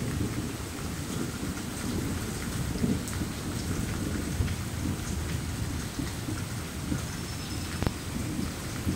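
Steady rain falling on a concrete patio, with a low rumble underneath.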